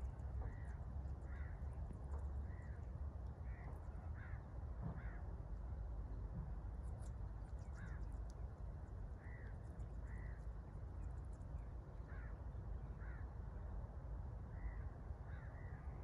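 A bird's short calls, repeated in loose runs about every second, over a steady low rumble, with a few faint high chirps from other birds about halfway through.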